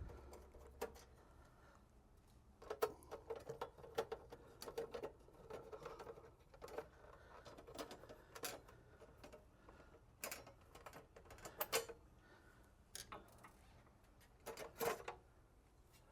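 Faint, scattered clicks and light metallic taps in short clusters: a screwdriver taking small screws out of an espresso machine's metal panels as the parts are handled.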